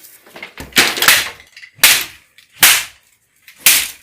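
Cobra hissing in sharp, loud bursts, four or five times, each cut off within a second: a defensive threat from a cornered snake.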